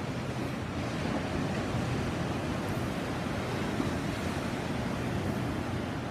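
Ocean waves breaking and washing on a shore, a steady rushing surf, with some wind on the microphone.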